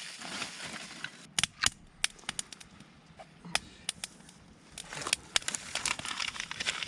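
Campfire cooking crackle: irregular sharp pops and snaps over a faint hiss. The pops grow denser and the hiss thicker about five seconds in.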